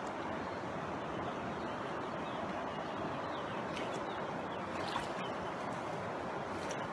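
Steady rushing water of a stream cascading over rocks, an even hiss with no break, with a few faint clicks around the middle and near the end.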